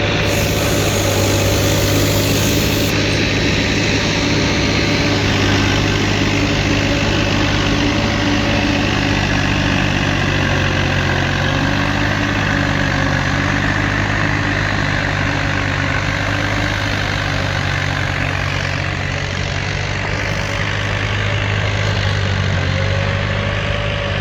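New Holland tractor engine running steadily under load, driving a 6–7 foot snowblower, with a steady whine over the engine note.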